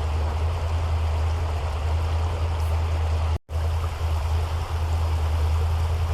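Steady rush of flowing creek water over a strong, steady low hum, cut by a brief dropout about three and a half seconds in.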